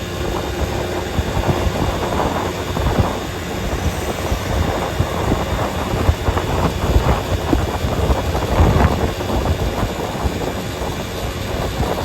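A vehicle running over a road: a steady low rumble of engine and road noise, with many small irregular knocks and bumps.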